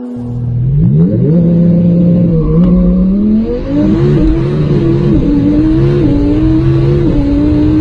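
High-performance car engine accelerating hard. Its revs climb from about half a second in, then rise in steps with several brief dips.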